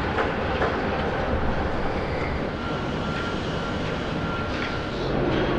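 Steady rumble of vehicle noise with a few faint clicks and a faint thin high tone in the second half.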